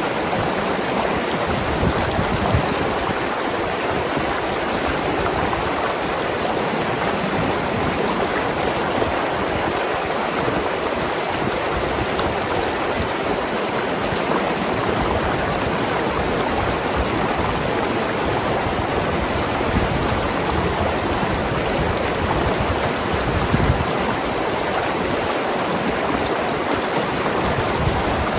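Mountain river rushing and gurgling over rocks: a steady, dense sound of flowing water.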